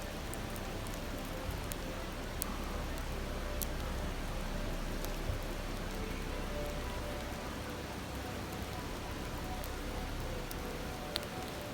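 A river babbling steadily, with a few sharp crackles from a wood campfire.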